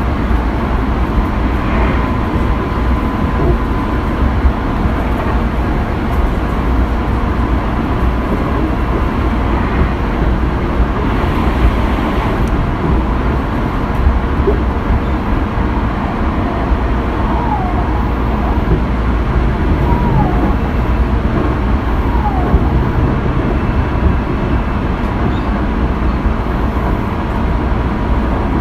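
Tobu 20400 series electric train running along the line, heard from inside the car: a steady rumble of wheels on rail with a faint constant whine. A few short falling squeals come through about two-thirds of the way in.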